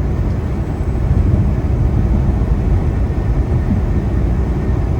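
Steady low rumble of a semi truck cruising at highway speed: engine and road noise heard from inside the cab.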